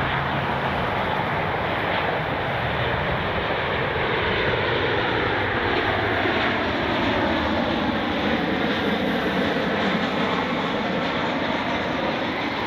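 Jet airliner's engines running as it passes, a steady loud rush with several tones that slowly slide down in pitch.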